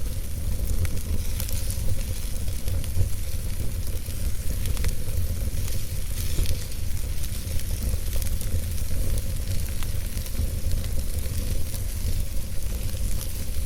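Wood fire burning in a fireplace: a steady low noise of the flames under a constant hiss, with frequent small crackles and pops.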